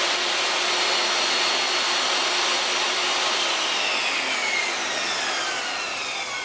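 Table saw running free with a newly fitted 24-tooth ripping blade, a steady motor whine, then switched off about three and a half seconds in, the whine falling in pitch as the blade coasts down.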